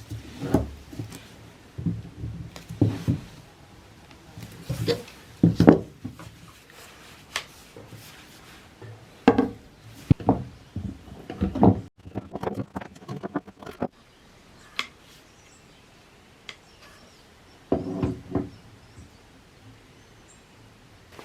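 Handling noises of hand work on a wooden hedge-shear handle: scattered knocks, taps and light scrapes at irregular intervals, thinning out in the second half.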